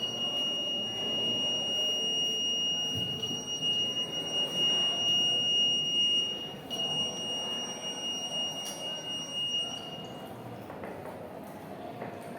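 Electronic buzzer sounding one steady high-pitched tone, broken twice very briefly, that cuts off about ten seconds in, over low background room noise.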